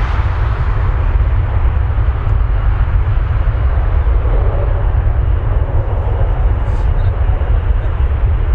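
Departing jet airliner's engines making a heavy, steady low rumble with a hiss above it, just after the aircraft has passed.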